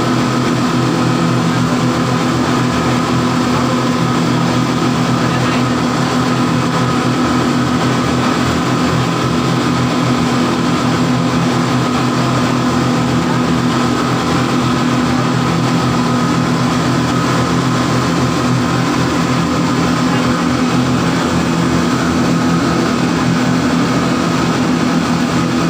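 A ship's engine running steadily, a constant loud drone with a fixed hum that never changes in pitch or level.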